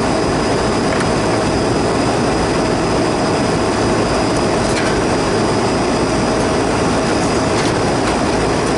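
Steady, loud running noise of rooftop air-conditioning units, with a constant hum through it and a few faint clicks.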